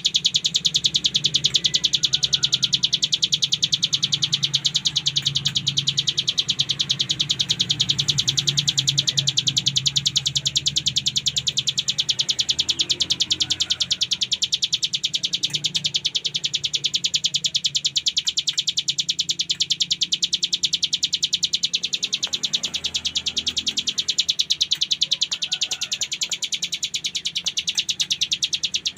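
Hill prinia (ciblek gunung) singing a continuous, very rapid buzzing trill, the 'ngebren' song, over a steady low hum.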